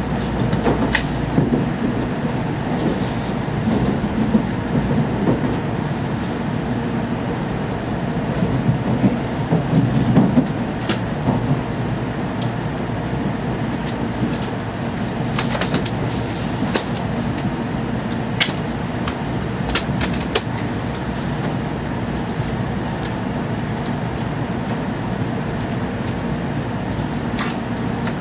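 Shinkansen train heard from inside the passenger car as it runs into its terminal station: a steady rumble of wheels on rail, with scattered sharp clicks and knocks.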